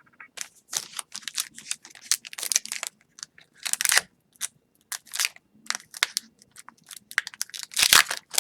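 A plastic hockey card pack wrapper crinkling and tearing as it is opened, in quick irregular rustles that bunch up near the end.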